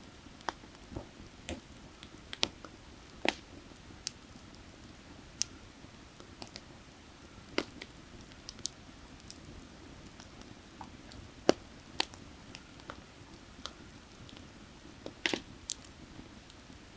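Firewood fire crackling, with irregular sharp pops, the loudest about eleven seconds in, over a low steady rush of creek water.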